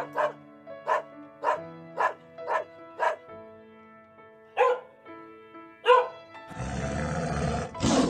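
Dog barking: six quick barks about half a second apart, then a pause and two louder barks, over background music with held notes. About six and a half seconds in, a tiger's rough, drawn-out roar begins and swells near the end.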